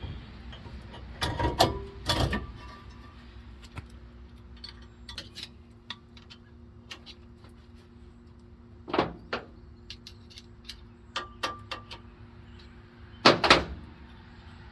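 Metal parts knocking and clattering as components go back onto a truck's rear axle hub, in separate clusters of clanks, the loudest near the end, over a steady low hum.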